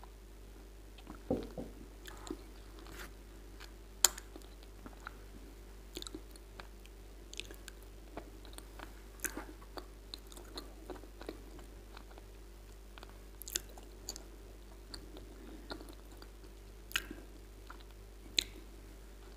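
Close-miked chewing of water-soaked edible clay (wet crunch): sparse, irregular soft crunches and moist mouth clicks, the sharpest about four seconds in.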